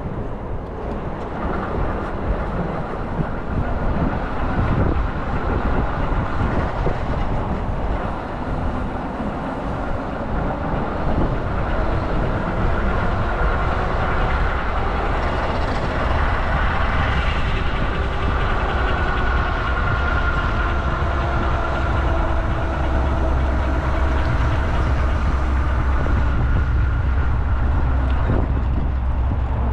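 Steady rumble and road noise of a moving vehicle, with a faint whine that drifts slowly in pitch through the middle; the low rumble gets heavier in the last third.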